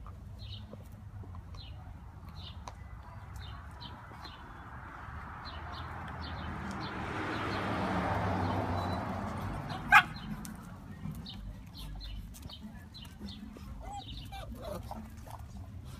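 Small birds chirping in short repeated calls, with a rushing noise that swells and fades midway and a single sharp click about ten seconds in, the loudest moment.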